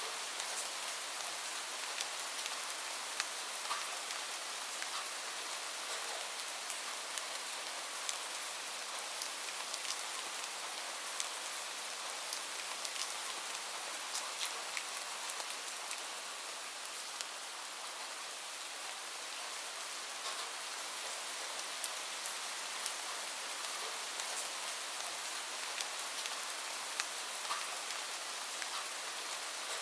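Steady rain falling on a surface, an even hiss with many small distinct drop ticks scattered through it.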